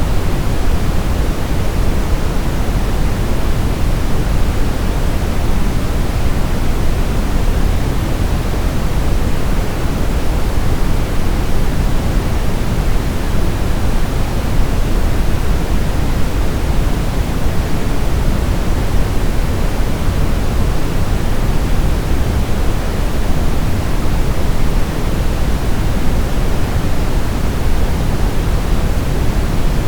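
Steady brown noise: a deep, even hiss weighted toward the low end, with no change.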